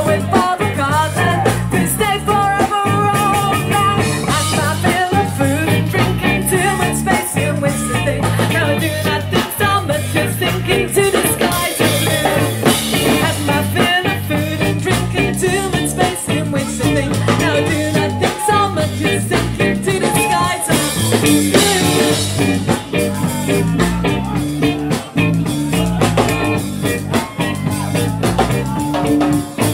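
Ska-punk band playing live, loud and steady, with a pulsing bass line under a regular ska beat.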